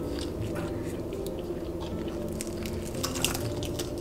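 Close-up biting and chewing of a slice of smoked-salmon pizza: soft wet mouth clicks and squishes, bunched together about three seconds in.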